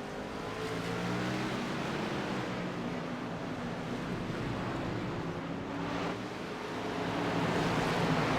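Race truck engines running at speed with broad tyre and wind noise, their pitch drifting as they go by. The sound swells a second in, eases briefly near six seconds, then swells again as more trucks come past.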